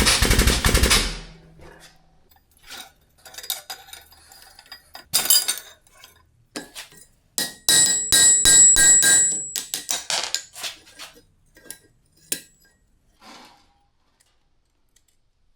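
A rapid, even run of mechanical hammering on steel stops about a second in. It is followed by scattered clinks and knocks of steel pieces being handled, and a short burst of ringing metal-on-metal strikes near the middle.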